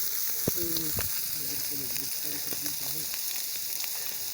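Fish frying in hot oil: a steady sizzle with scattered crackles and pops.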